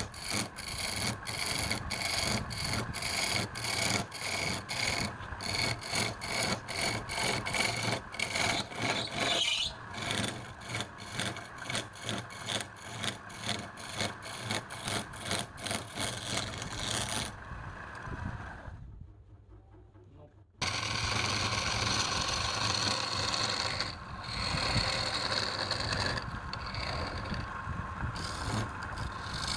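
Hand tool working wood in rhythmic back-and-forth strokes, about two a second, with a rough rasping sound. The strokes fade out about 17 seconds in, and after a brief gap a steadier rough scraping resumes.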